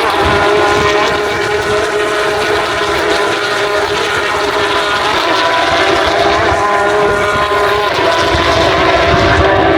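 Race cars' engines running at high revs on the circuit, a loud, steady, multi-toned drone that holds nearly the same pitch, shifting slightly past the middle.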